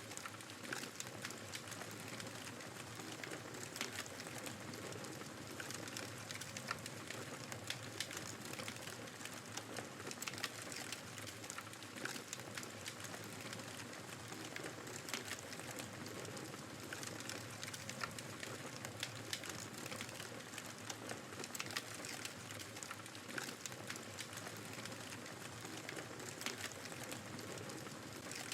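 Wood fire crackling in a fireplace, with frequent irregular sharp pops, over the steady noise of blizzard wind.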